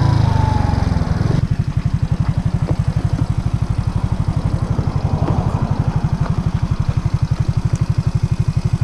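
Racer Alpha RC50 moped's small single-cylinder four-stroke engine settling to idle about a second and a half in, then idling with a steady, even putter.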